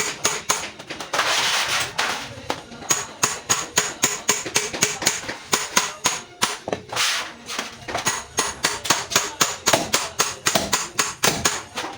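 Quick, even hammer taps, about five strikes a second, like a small hammer working metal during truck body and decoration work. A short hissing rush breaks in about a second in and again around the middle.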